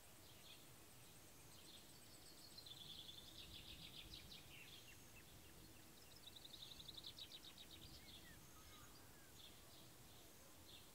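Faint birdsong: two rapid trilled phrases, one about two and a half seconds in and another about six seconds in, with scattered short chirps between them, over a quiet rural background.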